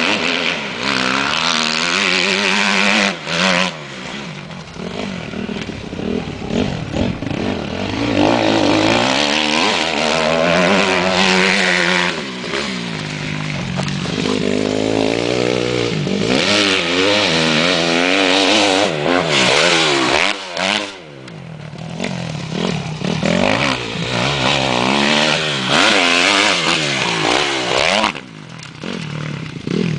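Motocross bike engine revving hard and easing off over and over as it is ridden round a dirt track, the pitch climbing and falling with throttle and gear changes. The engine briefly drops off three times: a few seconds in, about two-thirds of the way through, and near the end.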